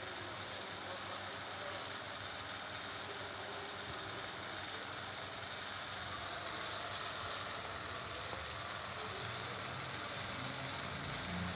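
Pet parakeet chirping in quick runs of short, high notes, one run about a second in and a louder one about eight seconds in, with single chirps between. A steady hiss lies underneath.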